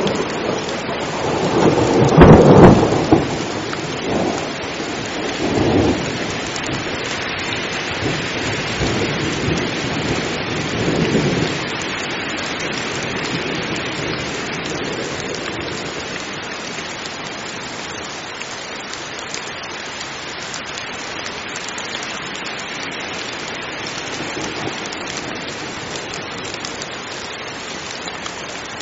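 Heavy rain falling steadily with rolling thunder. The loudest rumble comes about two seconds in, and weaker rumbles follow until about eleven seconds in, after which only the even hiss of the rain remains.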